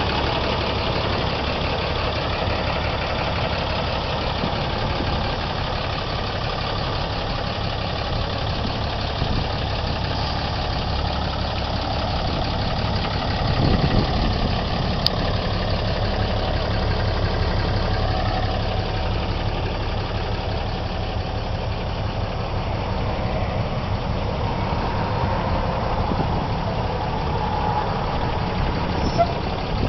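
Cummins 6.7-litre inline-six turbo diesel in a 2010 Ram 2500 idling steadily, with a brief louder moment about halfway through.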